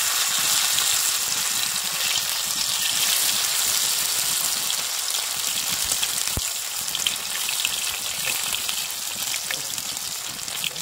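Masala-coated sweet corn skewers frying in hot oil in a shallow pan: a steady sizzle with fine crackling that continues as more skewers are laid in.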